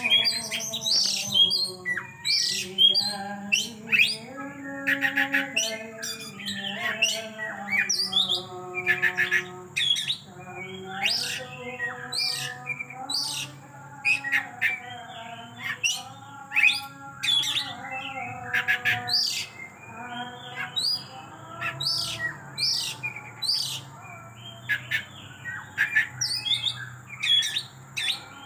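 Oriental magpie-robin (kacer) singing a fast, varied song of chirps, squawks and mimicked calls, one phrase after another, in full repertoire.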